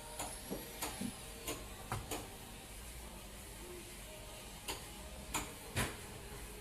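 Irregular sharp knocks and clicks, about ten of them, bunched in the first two seconds and again near the end, over a steady low hum.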